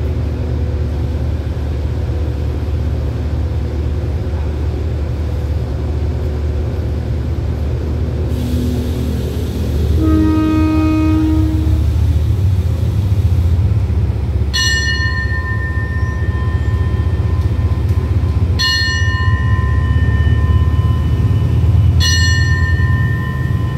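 A diesel passenger train standing at the platform with its engine running, a steady low drone. About ten seconds in a short horn blast sounds for under two seconds. From about fifteen seconds on a bell is struck three times, a few seconds apart, and each strike rings on.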